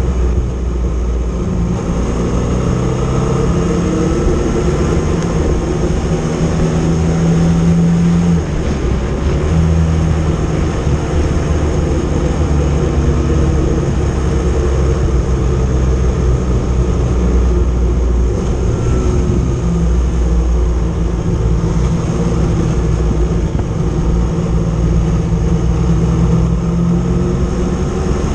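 Motorcycle engine running while under way, its note shifting up and down several times, over a heavy low rumble of wind on the microphone.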